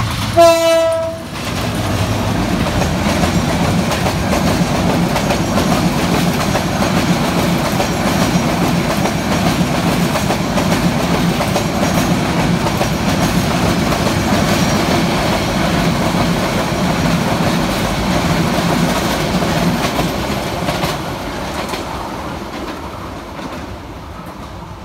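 A diesel locomotive's horn sounds one short blast, about a second long, the loudest moment. Then the train's PT-INKA passenger coaches roll past with a steady rumble and clickety-clack of wheels over the rail joints, and the sound grows quieter about four seconds before the end.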